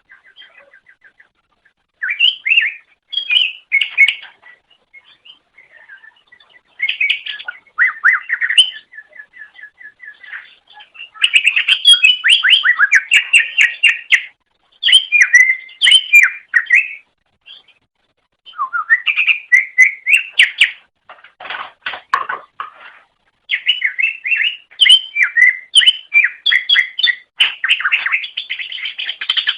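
Greater green leafbird (cucak ijo) singing: phrases of fast, varied chirps and trills separated by short pauses.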